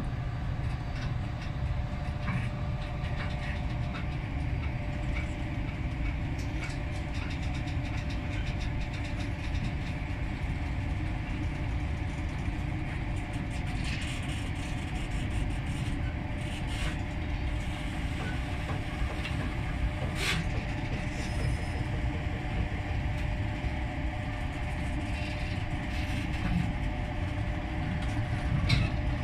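Freight train of container flat wagons carrying tank containers rolling past, a steady rumble of wheels on the rails with occasional sharp clacks.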